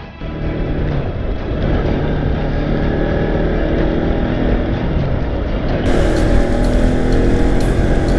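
Bajaj Pulsar NS200's single-cylinder engine running under way, its pitch rising and falling with the throttle, over steady wind noise. The sound gets brighter and a little louder about six seconds in.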